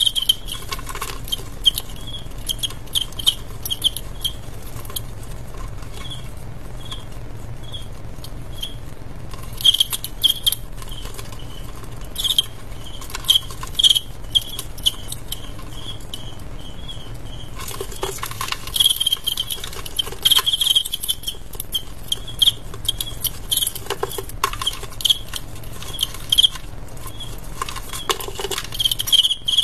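Male crickets chirping in short bursts of high chirps that come in clusters with pauses between, mixed with dry scratchy clicks and taps.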